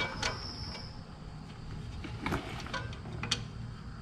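A few sharp clicks and taps as a bolt is worked into place by hand, over a low steady room background.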